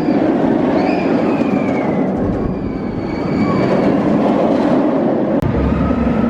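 Roller coaster train running along its steel track: a loud, continuous rumble with high, drawn-out squeals above it during the first few seconds.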